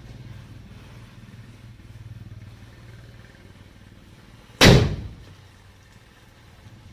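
A Diwali firecracker exploding: one sharp, loud bang about four and a half seconds in, dying away over half a second, over a low steady hum.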